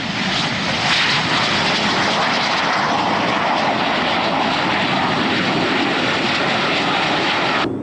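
Loud, steady engine roar of an aircraft in a flying display, an even rushing noise without a clear pitch, which cuts off abruptly near the end.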